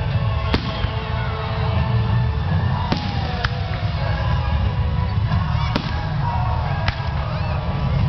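Aerial fireworks going off: a continuous low rumble of booms with about five sharp cracks spread through, and a few falling tones.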